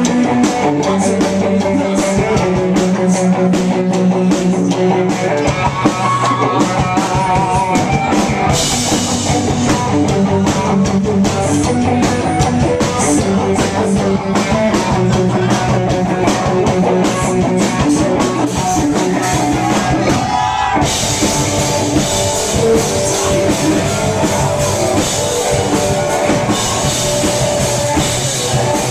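Rock band playing live, with guitar and drum kit; the cymbals get fuller about nine seconds in and again after a short break about twenty seconds in.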